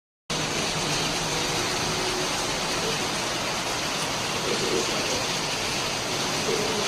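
Heavy rain falling, a steady, even hiss that starts about a third of a second in.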